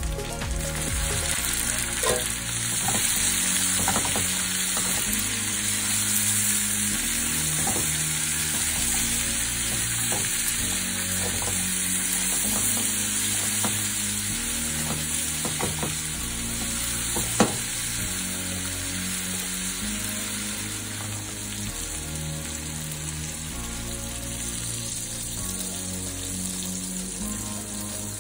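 Food frying in a hot pan with a steady sizzle, with a few light clicks of a utensil against the pan, the sharpest about 17 seconds in.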